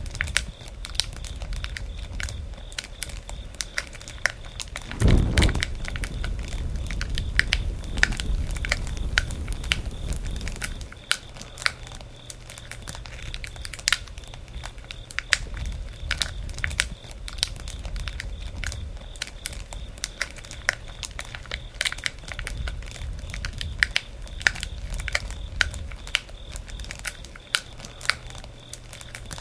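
Wood bonfire crackling, with many irregular sharp pops and snaps. A low rumble swells about five seconds in and fades out around eleven seconds.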